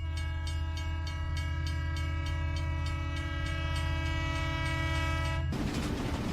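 Train horn sounding one long steady blast over a fast, even clatter of the train running, the horn cutting off suddenly near the end and leaving the rumble of the moving train.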